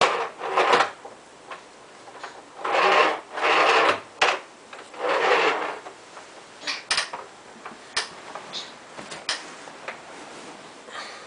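Several short bursts of rubbing or scraping noise, each under a second, in the first half, then scattered sharp clicks and knocks.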